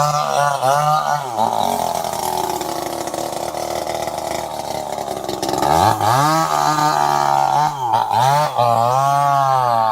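Two-stroke chainsaw engine revving in short wavering bursts, dropping back to a lower, quieter idle for a few seconds, then revving up again. It dips twice briefly before holding at a steady high speed.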